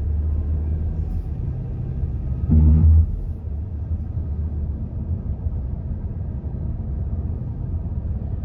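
Car road noise heard from inside the cabin: a steady low rumble of engine and tyres while driving. About two and a half seconds in, a short louder low pitched sound stands out for about half a second.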